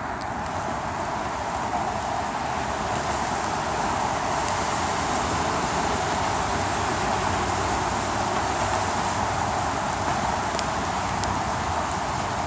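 Steady rushing noise of blizzard wind, even throughout with no rise or fall, with a few faint ticks.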